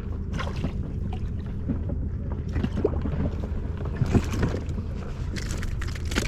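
Steady low rumble of wind and water around a small inflatable boat, with several short knocks and splashes scattered through it.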